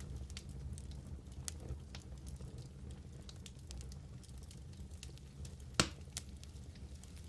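Wood fire burning in a fireplace, crackling with scattered small pops over a low steady rumble, and one loud sharp pop about six seconds in.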